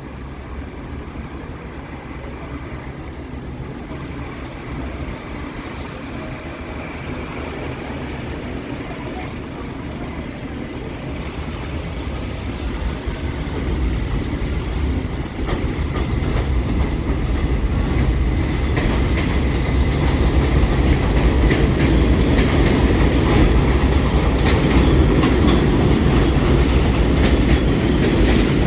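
New York City subway train running on the track, growing steadily louder, with wheels clacking over rail joints in the second half.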